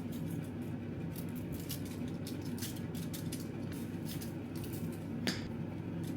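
Scattered light clicks and taps over a steady low hum, with one sharper click about five seconds in that rings briefly.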